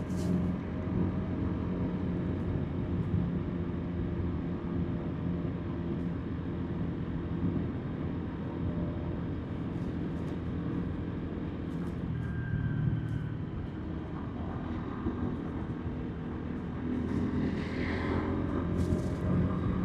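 Motorbike engine running steadily at cruising speed, heard from the rider's seat with wind and road noise. The engine note shifts slightly about two-thirds of the way through, and the sound grows louder near the end.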